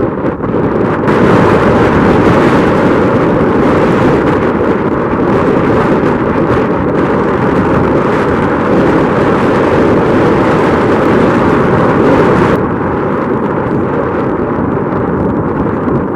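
Strong wind buffeting the microphone: a loud, rumbling rush that gusts up about a second in and eases near the end.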